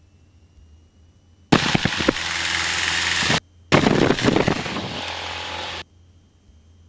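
Two loud bursts of hissing static on the Cessna 150's headset audio feed, each about two seconds long, starting and cutting off abruptly with a short gap between them, a faint low engine hum underneath.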